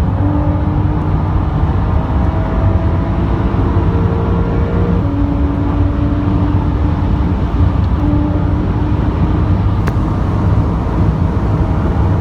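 A 2017 Porsche 911 Carrera S with its twin-turbo flat-six running steadily while driving, under a constant low rumble of engine and road noise. Its engine tones hold level and then step to a new pitch a few times.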